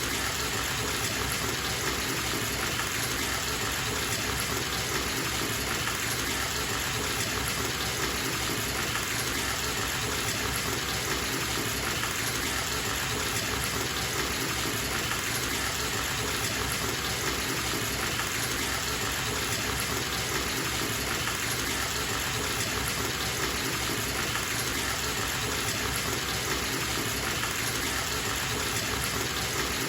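Water running steadily from a bathtub tap into a filling tub, an even rushing splash.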